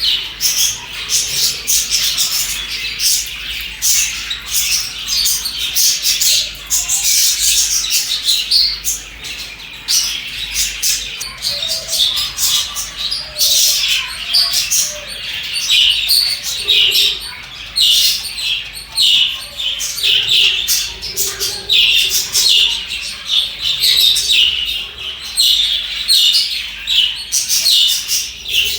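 A flock of budgerigars chirping and chattering continuously, many quick high chirps overlapping, with some lower warbling notes mixed in.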